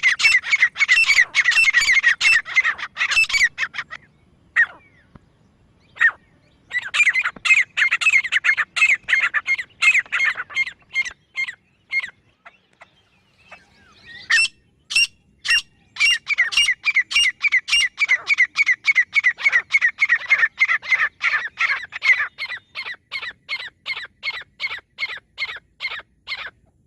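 Grey francolin calling: fast runs of sharp, high notes, about three a second, in three long runs broken by pauses. The last run fades near the end.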